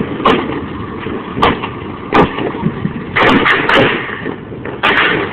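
Fireworks going off: a run of sharp bangs at irregular intervals, with a quick cluster of pops about three seconds in.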